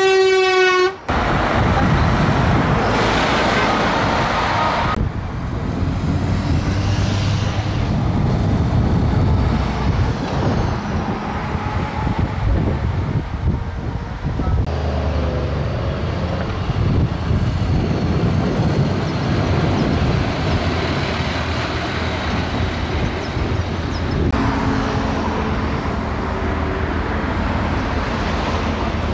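Heavy trucks driving past with their engines running and road noise, with horn toots in places.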